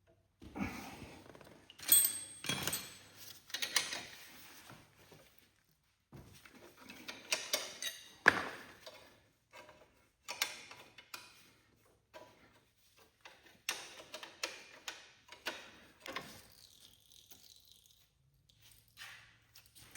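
Wrench and metal parts clinking, clicking and knocking irregularly while the hydraulic line on a garden tractor's orbital power-steering motor is being loosened, with the sharpest knocks about two seconds in and about eight seconds in.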